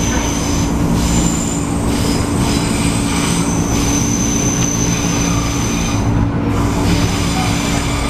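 Interior of an MTR East Rail line MLR (Metro-Cammell) electric multiple-unit train in motion. Steady running noise with a constant low hum, and a thin, high-pitched wheel squeal that comes and goes.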